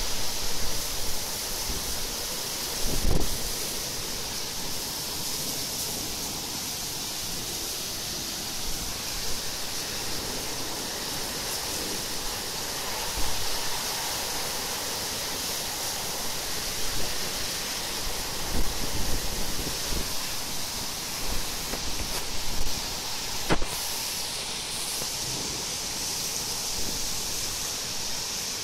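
Torrential downpour: a steady, dense hiss of heavy rain, with occasional low gusts buffeting the microphone and a single sharp click near the end.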